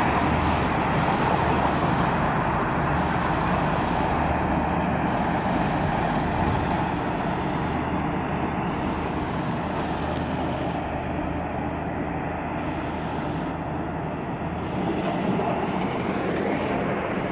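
Road traffic noise: the rush of a passing vehicle's tyres and engine slowly fading away, then another vehicle approaching near the end.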